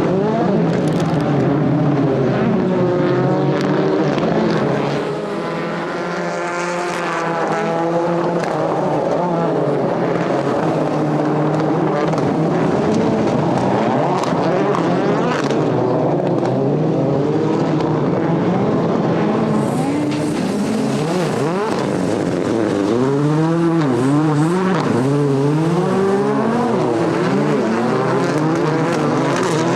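World Rallycross Supercars racing, their turbocharged 2.0-litre four-cylinder engines revving hard and dropping back through gear changes. Near the end the pitch repeatedly climbs and falls as the cars accelerate and brake through corners.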